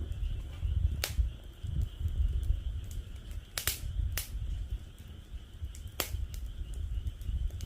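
Wood fire in a fire pit crackling, with a few sharp pops (loudest about a second in, a close pair near the middle, and one about six seconds in) among fainter ticks, over a low rumble. A steady high chorus of frogs runs underneath.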